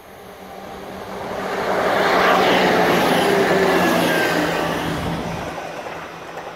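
A train passing at speed close by: the noise builds to a peak about two seconds in, holds, then fades away over the next few seconds.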